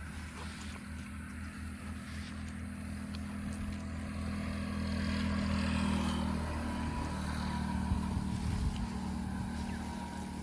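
An engine running with a steady low hum that grows louder toward the middle and eases off near the end.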